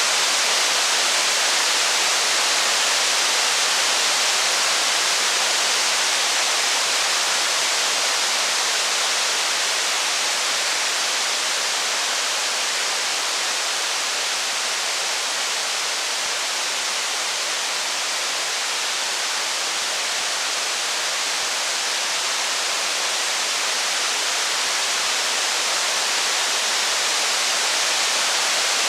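Steady heavy rain: an even hiss with no separate drops, crackles or thunder.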